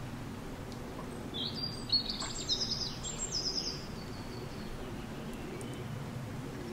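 Birds chirping and twittering in a quick run of high calls, some sliding down in pitch, for a few seconds near the middle, over a steady low background rumble.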